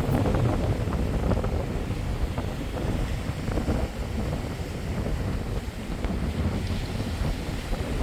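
Strong wind buffeting the microphone, with heavy waves surging and breaking on the shore underneath; the gusts rise and fall unevenly.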